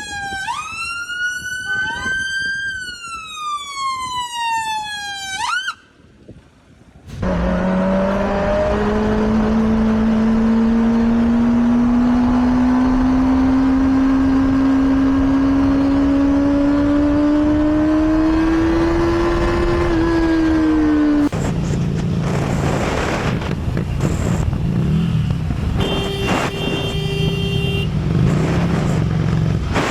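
A police siren wails, rising and then falling, for about the first six seconds. After a brief drop-out, a motorcycle engine runs with its pitch climbing slowly and steadily for about fourteen seconds, then gives way to rougher noise.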